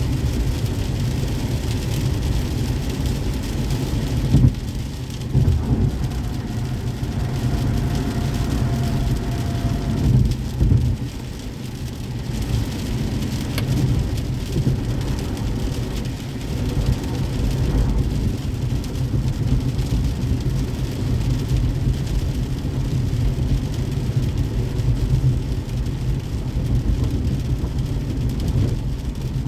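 Car driving in the rain: a steady low road rumble under the hiss of rain, with a few louder knocks about four to six seconds in and again around ten seconds.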